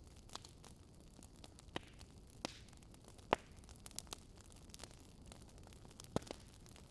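Wood fire crackling in a fireplace: irregular sharp pops and snaps over a faint steady hiss, the loudest pop a little over three seconds in.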